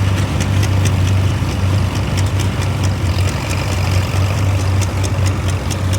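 Engine running steadily with a low hum and regular light ticking.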